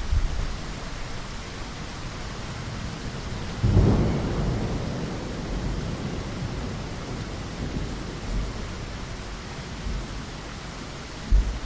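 Steady rain falling with a rumble of thunder that breaks out suddenly about four seconds in and slowly dies away; a couple of short low thuds near the end.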